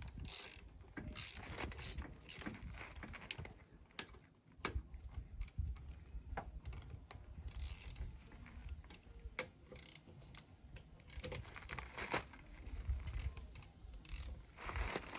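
Ratchet wrench clicking with irregular metal clinks and knocks as wheel nuts are done up on a car wheel.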